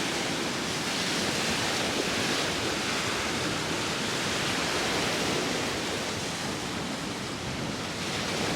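Sea waves washing on the shore with wind, a continuous rushing noise that swells and eases slightly.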